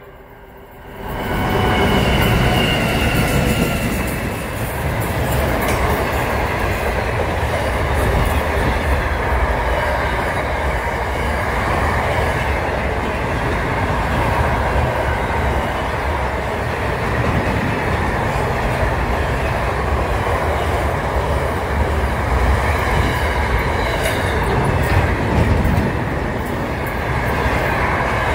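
Freight train passing close by. The locomotive reaches the spot about a second in, and a loud, steady rumble of wagons rolling on the rails follows.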